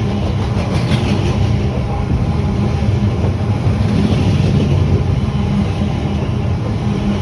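Class 345 electric multiple unit passing close by: a loud, steady rumble of wheels on the rails.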